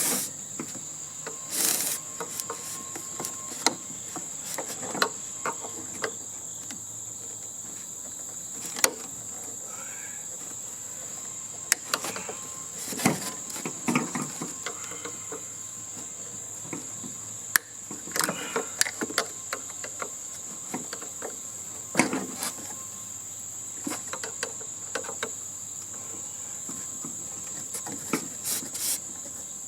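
A steady high-pitched insect drone runs throughout, overlaid by scattered sharp clanks and clicks of hand tools on sheet metal as the unit is taken apart, bunched in a few flurries.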